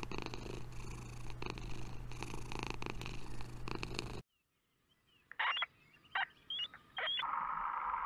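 Domestic cat purring steadily, cutting off abruptly after about four seconds. A few short high chirps follow, then a steady hiss begins near the end.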